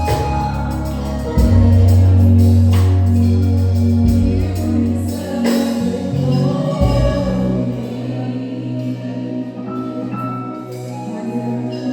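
Live gospel music: voices singing over a band, with deep sustained bass notes and percussion. The heavy bass drops away about seven seconds in.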